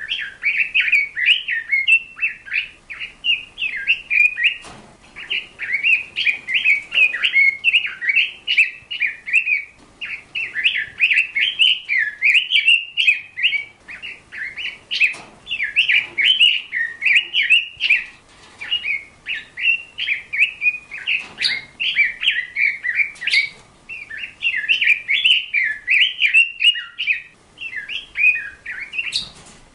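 A small bird chirping and warbling in rapid, continuous chattering phrases, with a few brief pauses.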